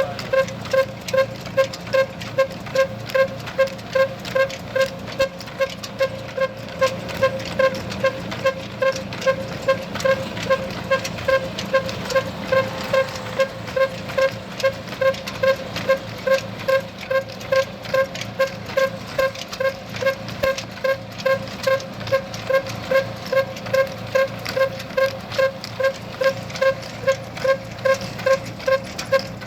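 Old single-cylinder stationary engine running steadily at slow speed, with a regular exhaust beat of about two a second over a low hum, as when it drives a village flour mill.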